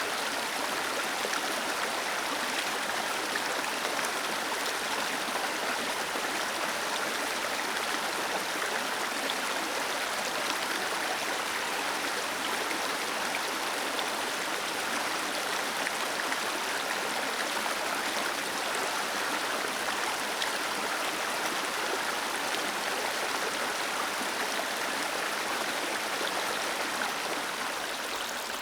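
Small waterfall cascading over rocks: a steady, even rush of falling and splashing water.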